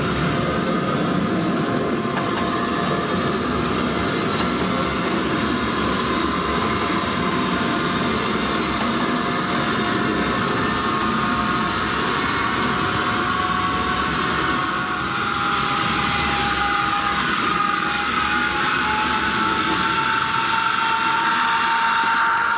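ESU LokSound decoder in an HO-scale EF210 electric locomotive model, playing the locomotive's running sound through the model's small speaker. A steady bed of running noise carries a whine from the inverter drive, which slowly rises in pitch from about two-thirds of the way through as the locomotive speeds up.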